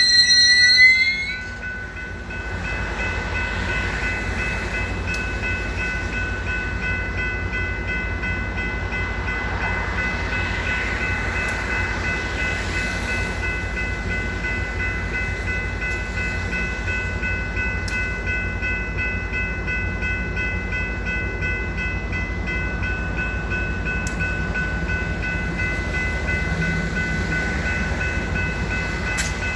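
Metra commuter train's brakes and wheels squealing as it comes to a stop, the squeal rising slightly and cutting off about a second and a half in. The train then stands at the platform with its diesel locomotive idling: a steady low rumble under a steady high whine.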